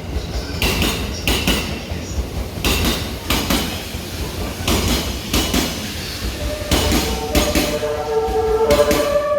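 The E001 series TRAIN SUITE Shiki-shima passing through at speed, its wheels clacking over rail joints in regular pairs as each carriage goes by. From about two-thirds of the way in, the train's music horn plays a short melody of held notes that changes pitch.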